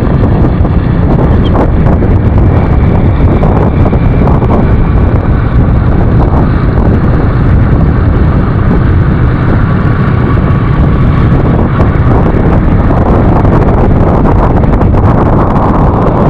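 Steady, loud wind buffeting the microphone of a moving motorcycle rider, mixed with road and engine noise.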